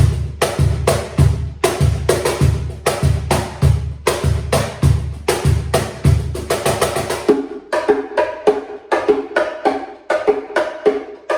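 Bongo cajon played by hand in a reggaeton groove: a steady rhythm of slaps and tones. Deep bass strokes sound along with it until about seven seconds in, then drop out, leaving only the higher-pitched drum tones.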